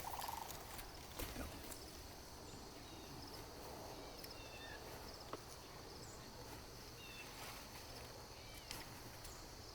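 Quiet outdoor background with a few faint, short bird chirps, the first around the middle and another near the end.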